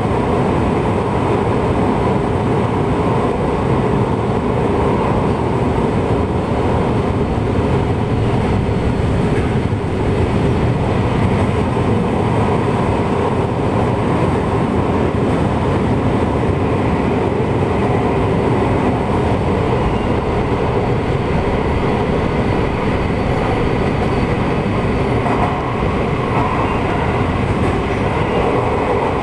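JR West 223 series electric train running steadily, heard from inside the carriage: an even running noise of wheels on rail.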